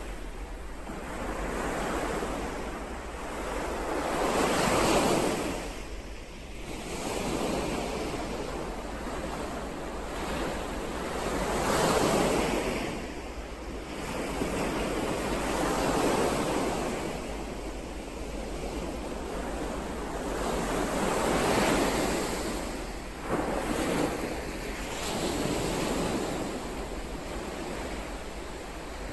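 Ocean waves breaking and washing ashore, the surf swelling and falling away every few seconds.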